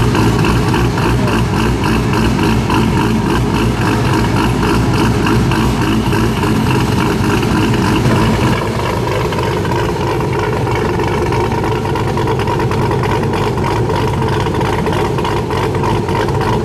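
2008 Corvette Z06's 7.0-litre LS7 V8, fitted with a custom camshaft and Kooks long-tube headers, idling steadily through its quad exhaust on its first start-up after the build. The sound drops a little in level about eight and a half seconds in.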